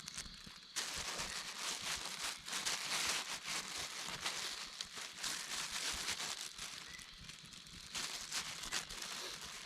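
Dense rustling and crackling, full of small clicks, that starts suddenly about a second in and thins out briefly near the end.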